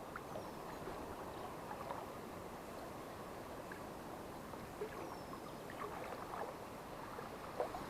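Faint, steady lapping of water at the bank, mixed with the low rush of a strong wind, with a few light ticks.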